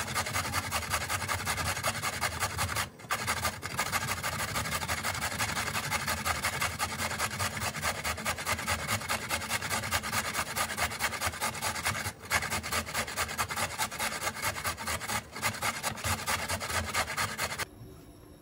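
Fast, rhythmic scraping strokes, about five a second, like a tool worked briskly back and forth against a surface. There are a few brief pauses, and the strokes stop abruptly near the end.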